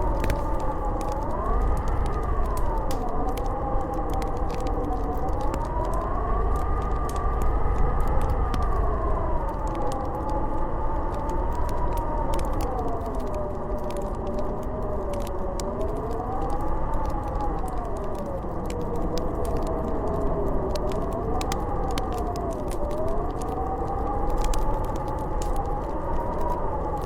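Howling snowstorm wind: a whistling moan that slowly rises and falls in pitch over a deep, steady rumble. Scattered crackles of a wood fire sound through it.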